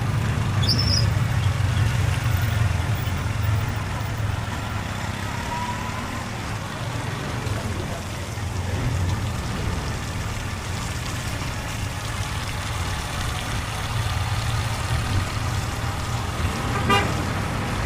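Motorbike engine running steadily under a rush of wind and road noise, as heard from the bike while riding.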